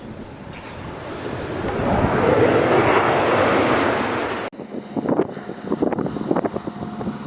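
Airbus A320 jet noise swelling into a loud, even roar as the airliner approaches, then cutting off suddenly about halfway through to wind buffeting the microphone over a low steady hum.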